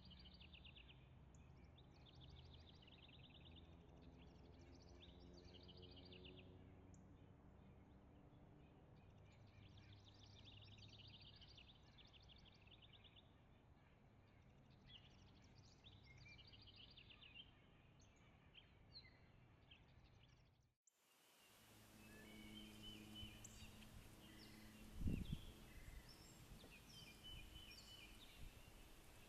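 Faint songbird trills, each about a second long, repeating every couple of seconds over a low steady hum. After an abrupt change about two-thirds through, other birds chirp, and there is a single low thump.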